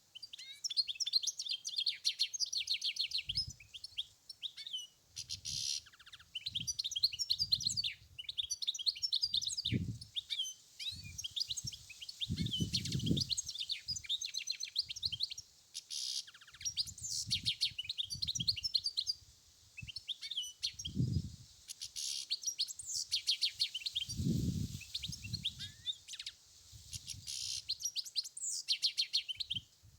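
European goldfinch singing: rapid, twittering phrases of high chirps and trills, broken by short pauses. Low rumbles come and go underneath.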